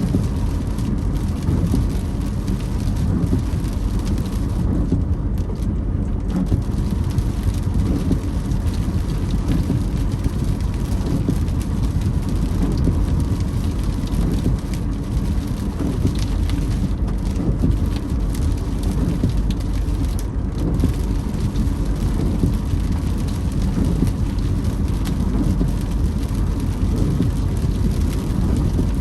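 Car driving in rain, heard from inside the cabin: steady road and engine rumble under rain hitting the windscreen, with the windscreen wipers creaking across the glass.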